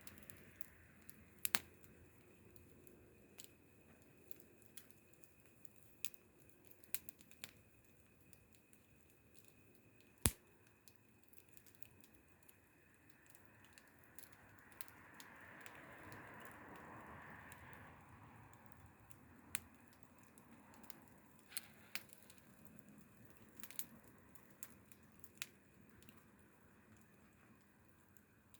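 Wood fire crackling: scattered, irregular sharp pops of burning wood over a faint steady hiss. A softer rushing sound swells for a few seconds past the middle.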